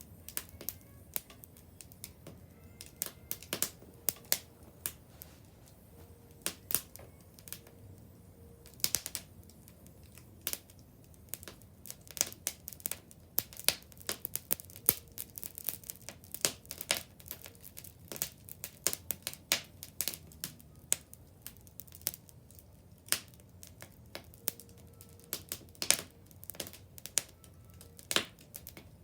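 Wood bonfire crackling, with irregular sharp pops and snaps that come thickest in the middle of the stretch.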